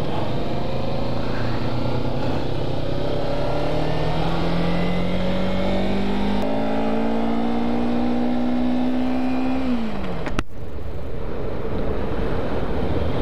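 Kawasaki Ninja parallel-twin motorcycle engine pulling away under acceleration, its pitch rising steadily for about ten seconds and then falling sharply as the throttle closes, over steady wind rush.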